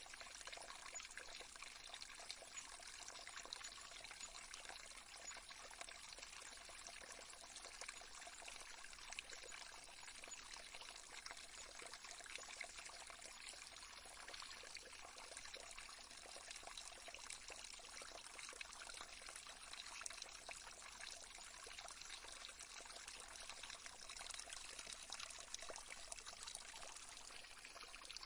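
Faint, steady trickling water, like a gently running stream, used as a soothing nature-sound bed.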